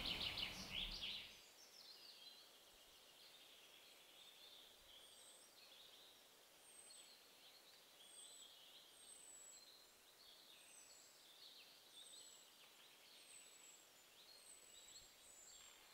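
Outdoor ambience with small birds chirping, fading down about a second in to near silence, under which faint, short, high chirps keep repeating.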